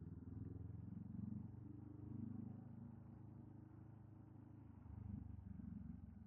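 Honda scrambler motorcycle engine running at low revs, heard muffled, with small rises and falls in pitch.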